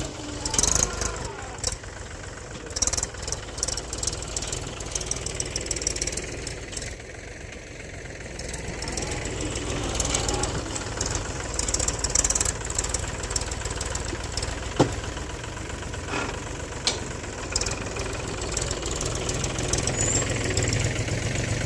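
Mahindra tractor's diesel engine running steadily while it works a front loader loading sand, with scattered knocks and clatter over the engine's low hum.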